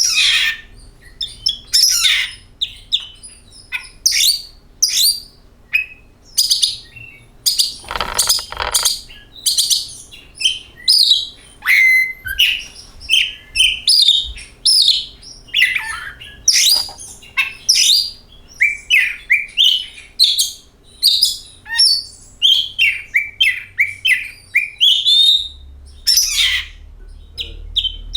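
Oriental magpie-robin (kacer) singing a fast, varied string of loud chirps and whistles, several notes a second with hardly a pause.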